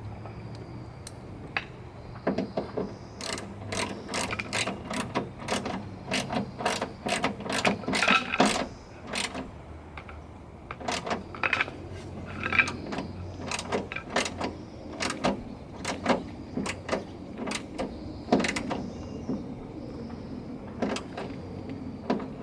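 Ratchet wrench clicking in quick runs of ratchet strokes as the 14 mm nuts holding the rear spoiler to the trunk lid are tightened down onto fresh ribbon sealer.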